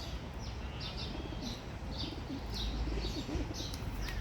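Pigeons cooing, low wavering coos in the middle, over short high chirps of a small bird repeated about twice a second, with a steady low rumble underneath.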